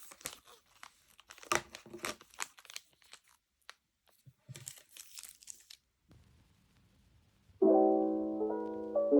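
Irregular clicks and taps of desk work for about six seconds, then a short pause. Piano music comes in near the end.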